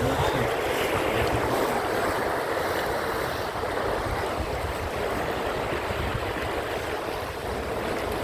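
Steady noise of an open canal tour boat underway: water washing along the hull, with wind buffeting the microphone.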